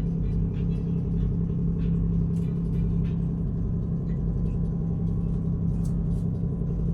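Steady low drone of a ship's diesel engine running, with a strong constant hum and no change in pitch.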